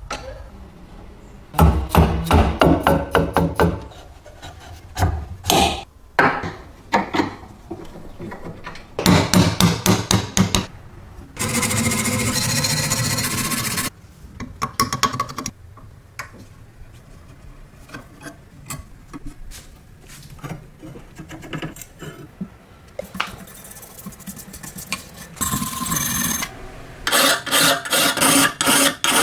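Hand work on an old cheese grater: runs of quick rasping or scrubbing strokes, separated by single knocks and handling, with a few seconds of steady hissing noise near the middle.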